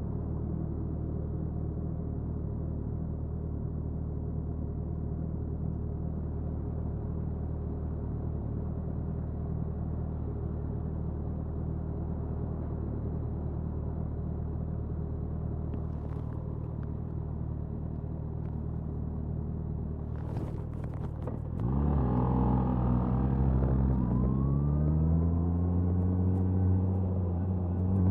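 Suzuki Hayabusa inline-four engine and exhaust idling steadily, then pulling away about three-quarters of the way in: the revs climb, drop briefly at a gear change, and climb again.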